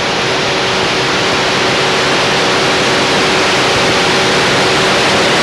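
Steady, loud rushing noise like air or a jet, a soundtrack effect that swells in just before and holds level, with a faint steady hum underneath.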